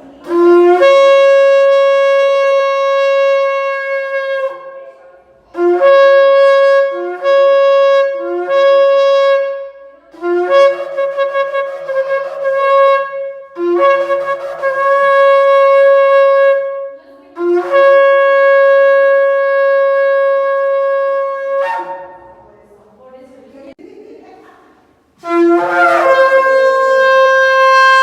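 Shofar (ram's horn) sounded in a series of blasts. Long held calls and a run of three short ones each begin on a low note and leap up to a higher held note. A pause of a few seconds comes near the end before another long blast.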